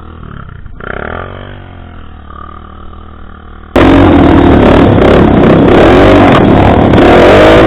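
Motorcycle engine running, quieter at first. About four seconds in it becomes suddenly much louder and noisier, with the revs rising and falling.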